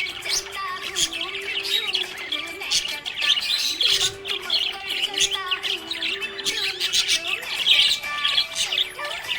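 Several budgerigars chirping and warbling continuously in quick, overlapping calls, over a low held melody that steps between notes.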